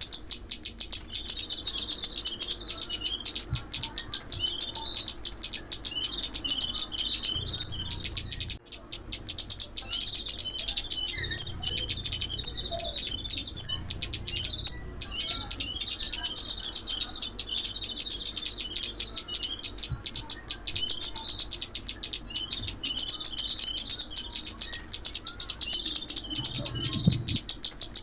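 Crimson sunbird song: rapid, high twittering chirps in long repeated phrases with a couple of brief breaks, over a thin steady high tone. This is a lure recording used to trap the bird.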